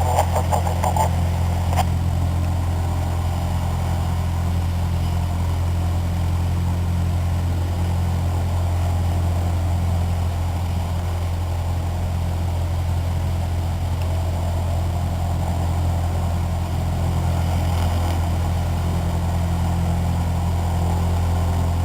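Cessna 152's four-cylinder Lycoming engine and propeller running steadily, an even, unchanging low drone heard from inside the cabin.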